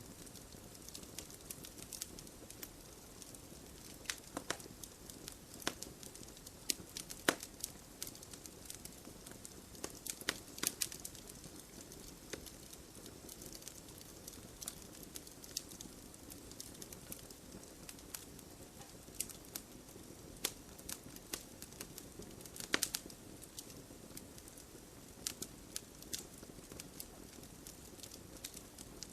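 Wood fire burning in a fireplace: logs crackling and popping in sharp, irregular snaps over a steady low rush of flame.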